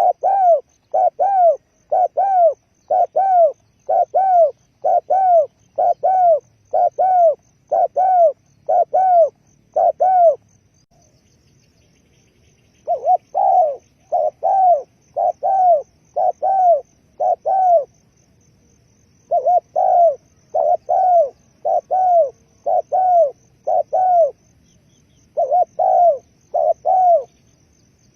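Dove cooing: a series of short, even coos, about two a second, in runs of five to eleven notes broken by pauses of one to three seconds. A faint, steady high-pitched insect trill runs underneath.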